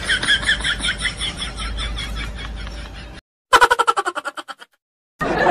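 Edited-in comedy sound effects. A fast rhythmic pulsing with a ringing pitch fades out, and the sound cuts to dead silence. A quick stuttering burst follows and dies away within a second. Street noise returns near the end.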